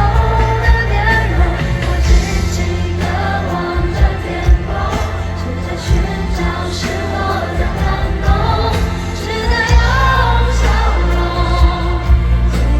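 Live pop concert music heard from within the audience: singing over the band, with a heavy bass line that drops out for a few seconds in the middle and comes back about two-thirds of the way through.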